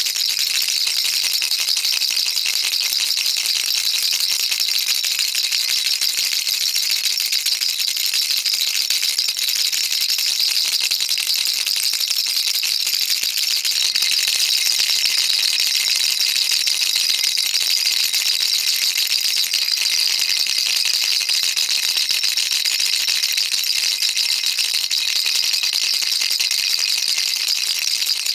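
A baby's toy rattle shaken without pause, a continuous fast patter of small beads clicking inside its shell, high and bright.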